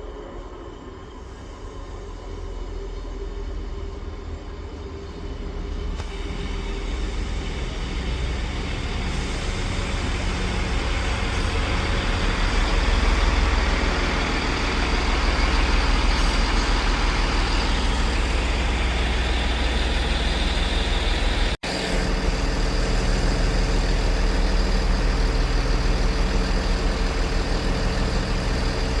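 Train approaching, its sound building steadily over about a dozen seconds, then running loud and even with a steady engine hum. It cuts out for a moment about two-thirds of the way through.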